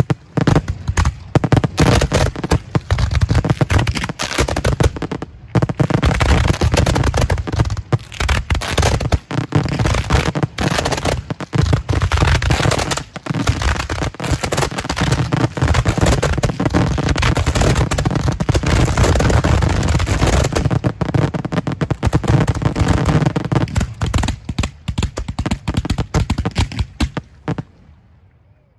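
Racks of fireworks mortar tubes firing in a dense, rapid barrage of bangs, nearly continuous, then thinning out and dying away in the last couple of seconds.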